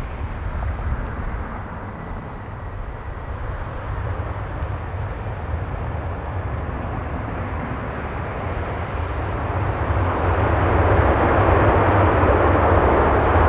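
Aircraft engine noise, a steady rushing sound that grows louder about ten seconds in.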